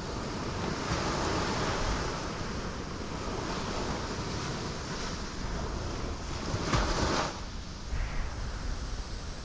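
Ocean waves breaking on rocks, a continuous surging wash with one louder crash a little after the middle that then drains away.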